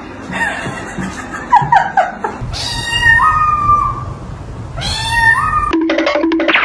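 A cat meowing: a few short falling meows, then two long drawn-out yowling meows.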